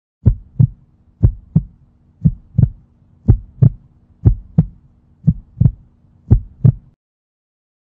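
Heartbeat sound effect: seven double thumps, about one pair a second, over a faint steady hum, cutting off abruptly near the end.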